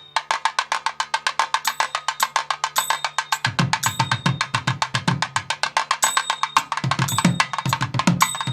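Percussion music: a fast, even run of sharp strokes, about seven a second, with a low drum joining in about three and a half seconds in.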